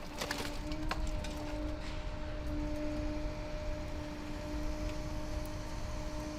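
Industrial machinery in a car-shredding plant running with a steady droning hum over a low rumble, with a few sharp clicks and knocks in the first couple of seconds.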